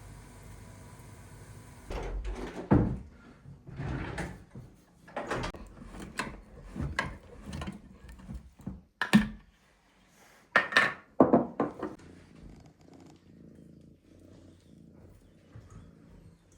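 A string of irregular knocks and thuds, as of things being handled and set down, starting about two seconds in after a steady hum and dying away near the end.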